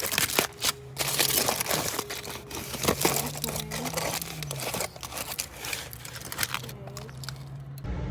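Crinkling and rustling, like plastic or paper packaging handled close to the microphone, in irregular crackles.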